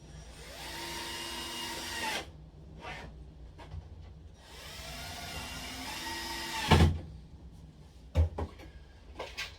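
Power drill driving screws into wood in two runs of about two seconds each. The motor whine rises as it spins up, then holds steady. The second run ends in a loud knock, and a couple of lighter knocks follow.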